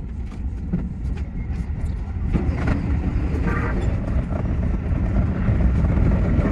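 Keio 8000 series electric train running, heard from the driver's cab: a low rumble with quick clicks of wheels over rail joints, getting louder as the train gathers speed.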